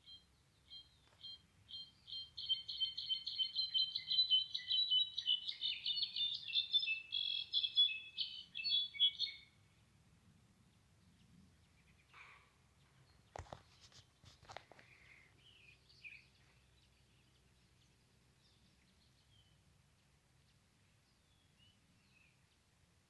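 Brown-backed solitaire (Mexican jilguero) singing. A few spaced notes quicken into a long, fast run of ringing, fluty notes lasting about seven seconds, which cuts off suddenly. Two sharp knocks follow a few seconds later.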